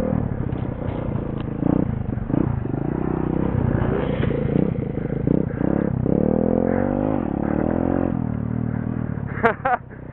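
Pit bike's small single-cylinder engine revving up and falling back again and again as it is ridden. A short, loud high-pitched sound cuts in near the end.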